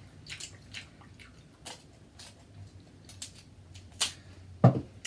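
Close-miked wet chewing and mouth clicks of someone eating seafood, with two sharper clicks near the end, the second with a low knock.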